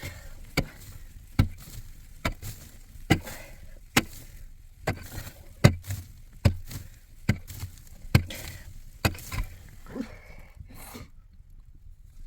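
Repeated chopping blows of a heavy hand tool, about a dozen evenly paced strikes a little under a second apart, each with a dull thud, stopping about ten seconds in.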